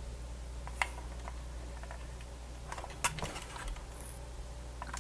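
Scattered light clicks and taps of the plastic radio case and its parts being handled and prised during disassembly: one sharp click about a second in, a short cluster around three seconds, over a steady low hum.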